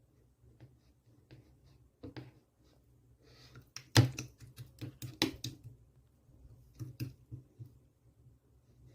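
Clear slime being squeezed and stretched by hand, giving a scatter of small wet clicks and pops, loudest about four and five seconds in.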